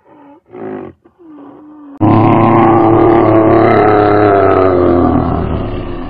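A few short, wavering animal calls, then about two seconds in a brown bear's loud, long roar that slowly falls in pitch and fades near the end.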